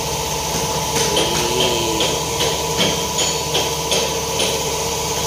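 A hammer striking metal again and again, about two to three blows a second, over a steady machine hum.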